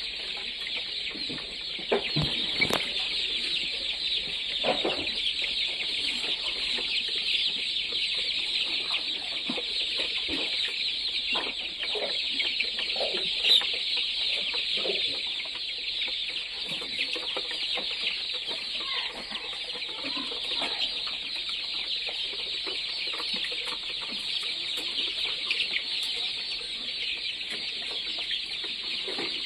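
Chickens clucking on and off over a dense, steady high-pitched chorus of chirping.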